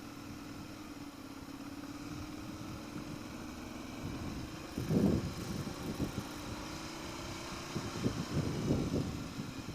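Ducati Monster 696's air-cooled L-twin engine running while the bike is ridden at a steady pace, its tone drifting slowly. Louder low rumbling surges come about halfway through and again near the end.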